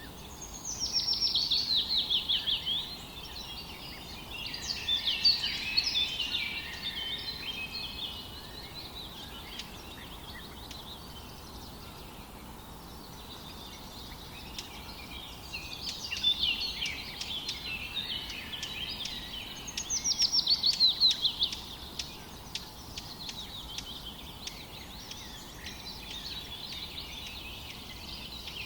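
Songbirds singing over a steady background hiss. A quick run of falling notes comes about a second in and again about twenty seconds in, with busier chattering phrases in between.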